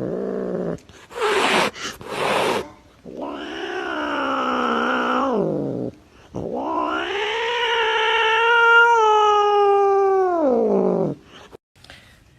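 Cat yowling: after a few short harsh sounds, two long drawn-out wailing calls, the second about five seconds long, each rising, holding and then dropping away at the end.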